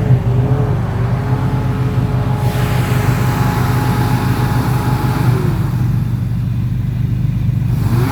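Built off-road rig's engine running steadily at low revs during rock crawling, with a faint wavering whine over it for the first few seconds.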